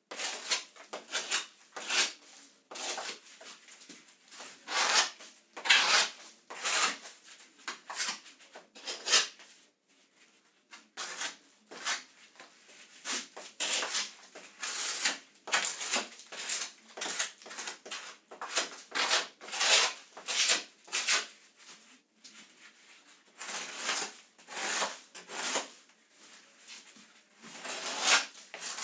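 A wall surface being rubbed down by hand: repeated abrasive strokes, roughly one or two a second, with two short pauses along the way.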